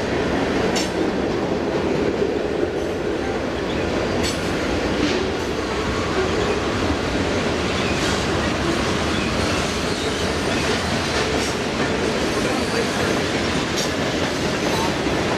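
Freight train cars rolling past, a steady rumble of steel wheels on the rails with occasional sharp clicks as the wheels cross rail joints.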